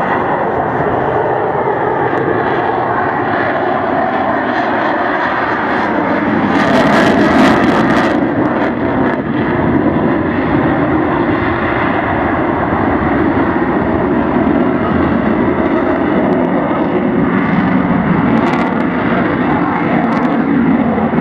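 F-16 fighter jet's engine roaring overhead in a loud, steady rush. It swells to its loudest about seven seconds in, with a brief crackle.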